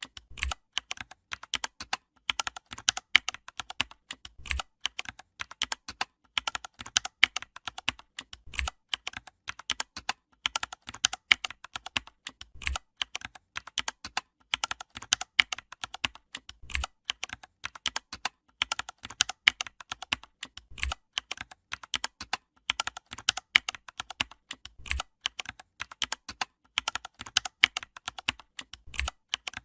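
Computer keyboard typing: rapid, irregular key clicks. The same run of clicks, each ending with a low thump, repeats about every four seconds, like a looped typing sound effect.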